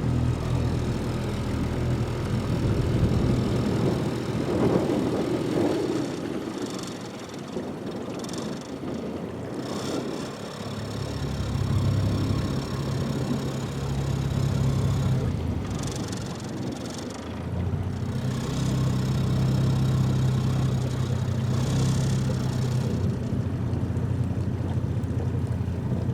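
Small boat's outboard motor running at low speed, its hum dropping and picking up again a couple of times as the throttle changes.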